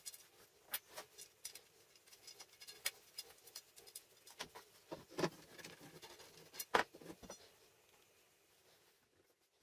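Irregular light clicks, taps and scrapes of small workpieces being handled at a workbench, with two sharper knocks about five and seven seconds in.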